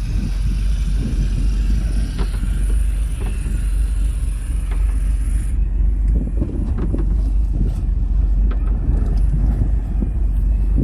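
Steady low rumble of a fishing boat's engine, with wind buffeting the microphone. A high hiss on top stops suddenly about halfway through.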